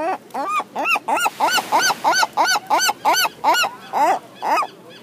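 Seagull giving its long call: a rising opening note, then a rapid run of about a dozen loud arched calls, roughly three a second, that stops shortly before the end.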